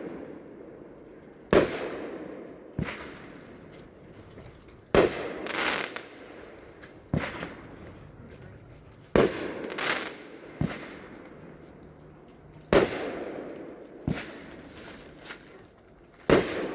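Consumer firework cake firing its shots one after another, about nine sharp bangs one to two seconds apart, each trailing off in a short crackle.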